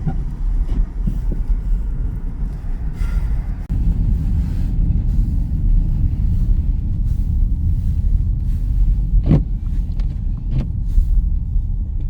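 Steady low rumble of road and engine noise inside a moving car's cabin, with a couple of brief knocks near the end.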